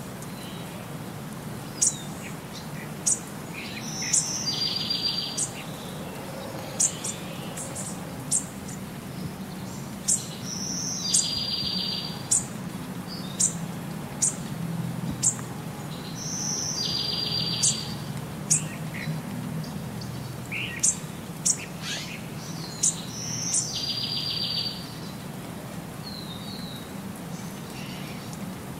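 Birdsong: short high chirps scattered throughout, and a buzzy trill about a second long that recurs roughly every six seconds, over a steady low background hum.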